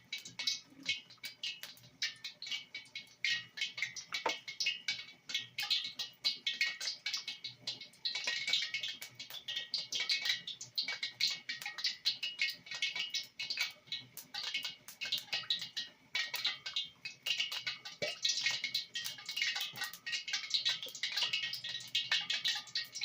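Hot cooking oil crackling and spitting in a pan, a dense run of irregular small pops; the cook suspects a little water in the oil.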